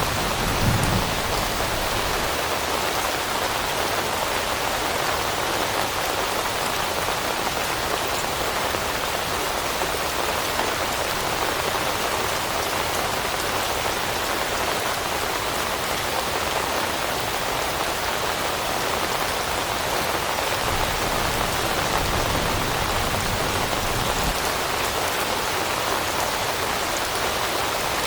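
Steady rain falling, an even hiss of many drops on surfaces, with a brief low thud about a second in.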